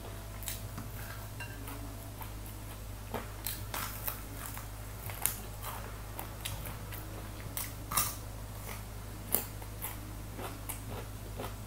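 Close-up chewing and crunching of a crispy baked chicken wing, with sharp crackles of the crisp coating at irregular intervals as it is bitten and pulled apart by hand.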